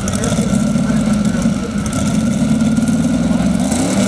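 Corvette drag car's V8 idling with an even, pulsing beat, the pitch lifting slightly near the end as the revs come up.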